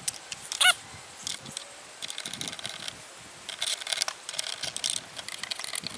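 Light metallic clicking and rattling of small bolts, washers and an Allen wrench being worked on a chainsaw mill's end bracket as the bolts are snugged down, with one short squeak just under a second in.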